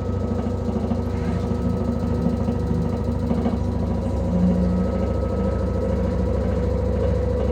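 LG direct-drive washing machine spinning, a loud, steady rumble with a fast pulse and a held whine over it: the extreme noise of a faulty spin cycle.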